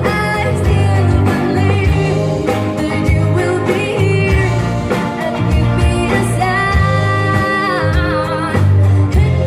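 Live band music with a lead singer, played loud through the stage sound system: a sung melody over a steady, pulsing bass line.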